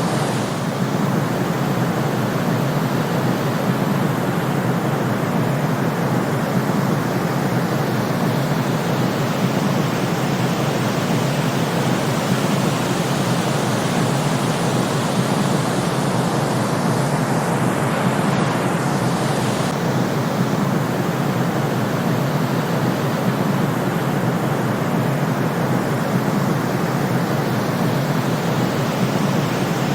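Steady, unchanging white-noise track for sleep, a constant hiss with most of its weight in the low and middle range rather than the treble.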